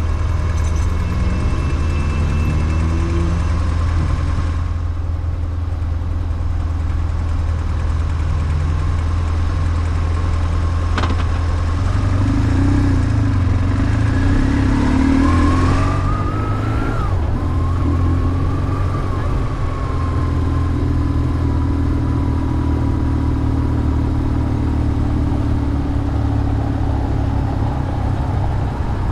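BMW R1150GS air-cooled flat-twin boxer engine running under way, with the revs rising as it pulls away near the start and again in a longer acceleration a little past the middle. A single sharp click about eleven seconds in.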